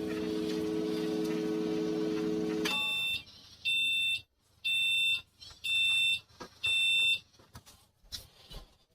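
Microwave oven running with a steady hum that stops almost 3 s in, then the end-of-cycle signal: five high electronic beeps about a second apart, each lasting about half a second, marking that the cooking time is up. A few faint clicks follow near the end.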